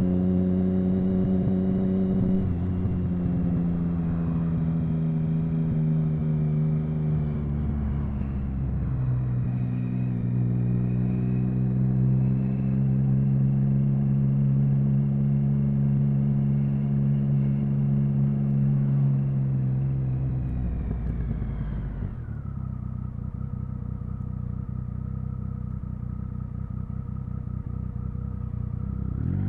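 Triumph Speed Triple 1050's inline three-cylinder engine running at low, steady revs, its pitch easing down a couple of times as the throttle is rolled off. From about two-thirds through it settles to a lower, steady idle, then starts to rev up sharply right at the end.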